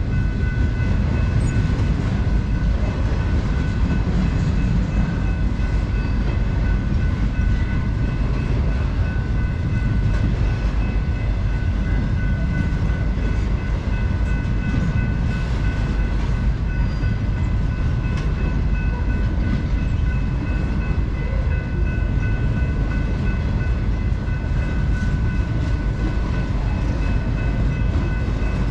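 Intermodal freight train cars rolling past on the rails: a loud, steady rumble of steel wheels on track, with a thin, steady high-pitched squeal held over it.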